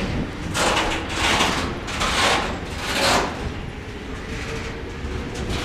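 Freight train rolling past, its wagons making a whoosh of noise about once a second, easing after about three and a half seconds, with a faint steady whine from about three seconds in.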